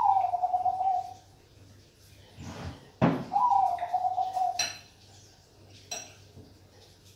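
Bangkok-bred male zebra dove (perkutut) singing: two long, clear coos, each dipping slightly in pitch, with a rough lower note just before the second. Two short sharp clicks follow near the end.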